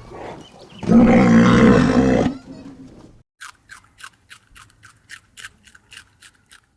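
A large animal roars once, a loud, pitched call of about a second and a half. After it comes a run of short, sharp clicking calls, about four a second.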